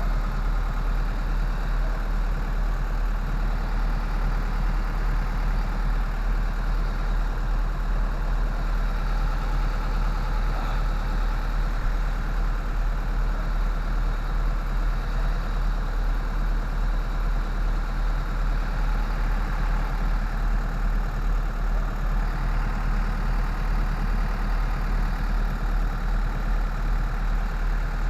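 An engine idling steadily at an even low pitch, with no change in speed.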